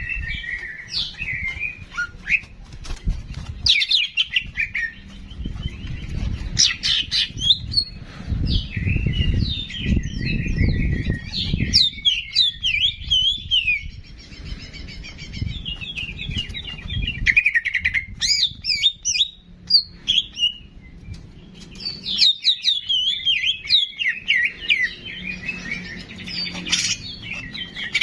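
Songbird song from a masteran (song-training) recording: rapid, varied chirps and trills in several bouts, with short gaps around 14 and 21 s in. A low rumble runs underneath, loudest around the middle.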